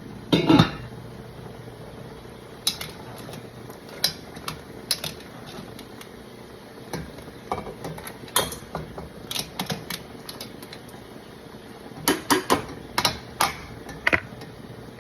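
Kitchen clatter: scattered clinks and knocks of utensils against pots and dishes, with a quick run of strikes near the end, over a low steady hum at first.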